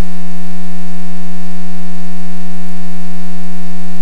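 Loud, steady electrical hum on the recorded headset/intercom audio line: one unchanging low pitch with a long ladder of overtones, like a ground-loop buzz.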